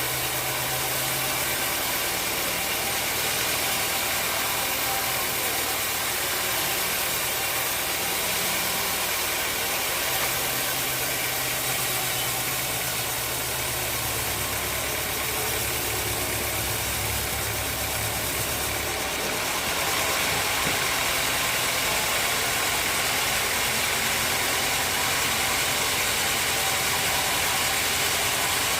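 Sawmill machinery running steadily, with a constant hiss over a low hum. The hum changes pitch a few times, and the sound grows slightly louder about two-thirds of the way through.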